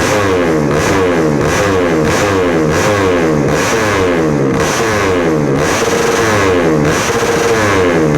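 Tuned Yamaha Jupiter Z motorcycle engine, bored to 125 cc, revving through an aftermarket racing exhaust. The throttle is blipped over and over, the revs climbing nearly twice a second, with short holds at steady revs near the end.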